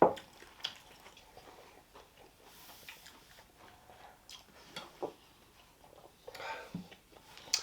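Close-miked eating sounds: faint chewing and mouth smacks of someone eating curry and rice, with scattered small clicks and a sharp click right at the start.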